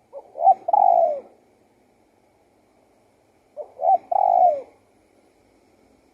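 Spotted dove cooing: two phrases about three seconds apart, each two short coos followed by a longer coo that falls in pitch at the end.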